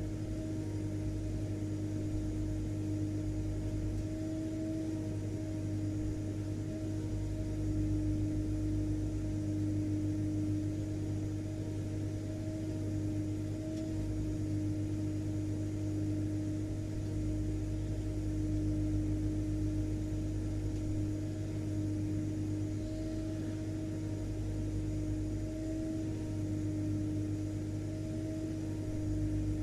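Vacuum cleaner running steadily: an unchanging motor drone with a low hum and a steady mid-pitched whine over a faint hiss.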